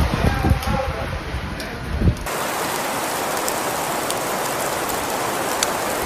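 Gusty wind rumbling on the microphone, then about two seconds in an abrupt switch to a steady hiss of heavy rain with scattered drop ticks.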